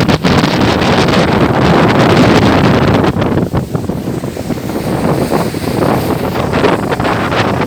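Strong wind buffeting the microphone aboard a motorboat under way, over the rush of the boat's engine and water. The hiss eases briefly about three seconds in.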